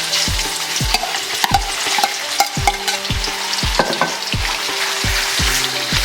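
Chopped chicken sizzling and spitting in hot oil in a pan, stirred with a utensil that scrapes and clicks against the pan now and then.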